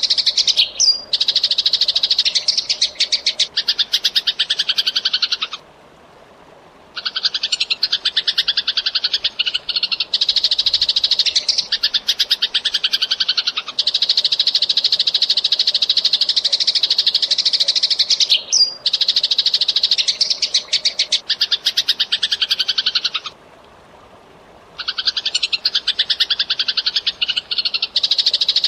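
Eurasian tree sparrow chirping very fast and continuously, the chirps running together in long bouts, breaking off twice for a second or so.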